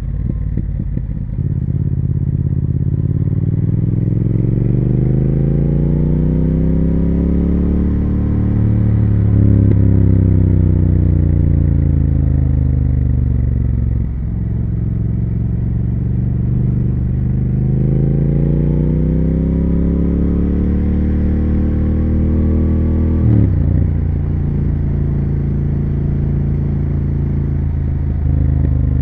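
Triumph Speed Twin 1200's 1200 cc parallel-twin engine and exhaust under way: the revs climb smoothly for several seconds, ease back down, climb again, then drop abruptly near the end like a gear change and settle into steady running.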